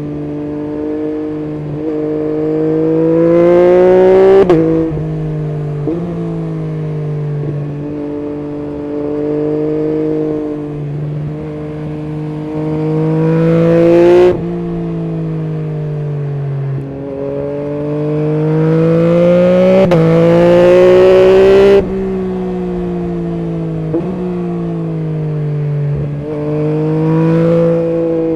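Yamaha MT-09 SP's 890 cc three-cylinder engine through an Akrapovic full exhaust system, on the move under repeated acceleration. The pitch climbs through the gears with short dips at each shift. The sound falls away sharply three times as the throttle is closed, after its loudest peaks about four seconds in, near the middle, and around three-quarters of the way through.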